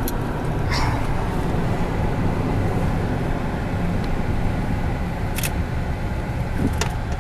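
Steady road and engine noise inside a moving car's cabin, with a few brief sharp clicks.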